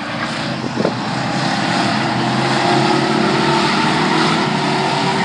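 Engines of a field of classic race trucks running on the track, a steady engine drone that grows louder over the first couple of seconds as they come past.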